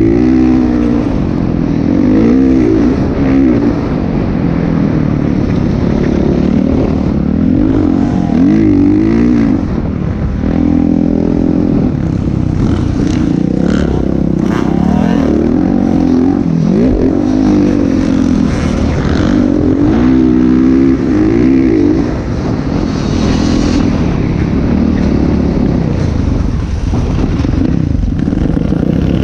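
Motocross dirt bike engine revving up and down over and over, the pitch rising and falling every second or two as the throttle is worked.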